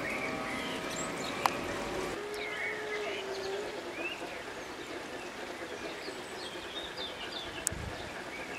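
Outdoor garden ambience with birds chirping, short rising and falling calls throughout, and two sharp clicks, one about a second and a half in and one near the end.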